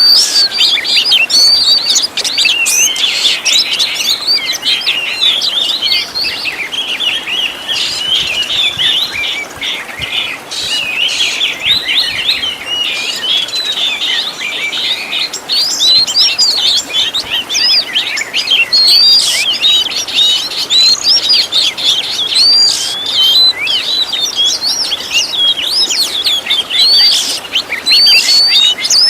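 Oriental magpie-robin (kacer) song: a dense, unbroken stream of quick, varied whistles and chirps, the kind of full song with mimicked fills used as a tutor recording for caged birds.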